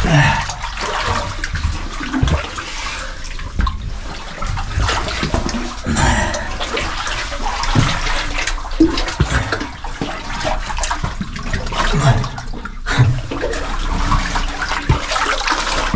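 Water splashing and sloshing as a caver moves through cold water in a flooded cave passage, with occasional sharp knocks.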